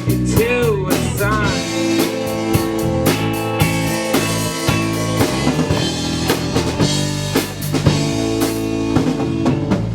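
Live band playing instrumentally: drum kit with bass drum and snare keeping a steady beat under bass and guitar. Sliding, bending lead notes come near the start.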